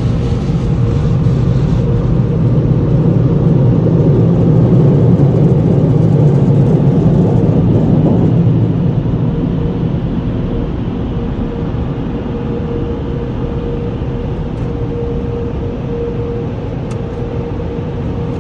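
Car wash machinery running: a loud, steady mechanical noise with a constant whine, its deep rumble easing off about halfway through.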